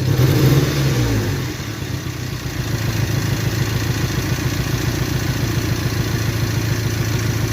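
1998 Toyota 4Runner's 2.7-litre four-cylinder engine idling with a misfire that sets no fault codes.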